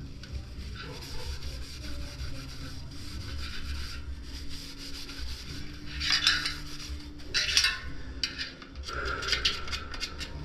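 Hands rubbing and scraping along a bicycle wheel rim, cleaning old dried tubeless sealant off where the tyre bead seats, in irregular strokes that grow stronger about halfway through and near the end.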